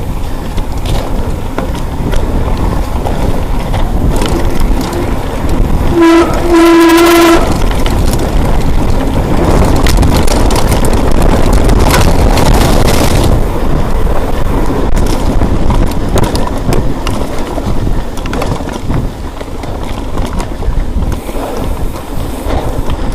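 Steady rushing wind and rumble, with a horn sounding about six seconds in: a short blast, then a longer one.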